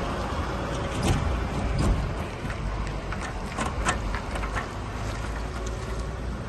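A vehicle engine running with a steady low rumble, with a few sharp knocks and clicks in the first four seconds.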